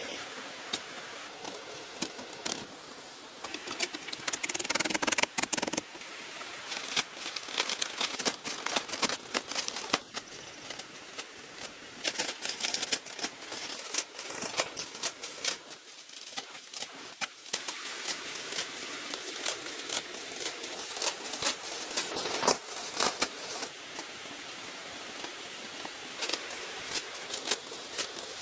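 Bamboo being handled and worked by hand: many small irregular clicks, taps and rustles, busiest about four to six seconds in.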